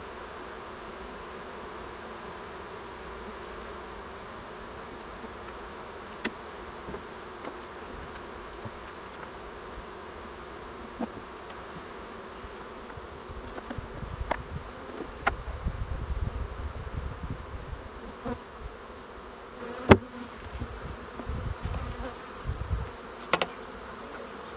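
Honeybees of an opened colony buzzing steadily in a dense hum. In the second half, scattered knocks and clicks of hive equipment being handled join the buzz, with a low rumble and one sharp knock near the end.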